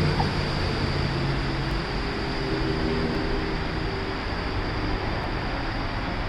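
Long Island Rail Road M3 electric multiple-unit train running, a steady rumble with a low hum.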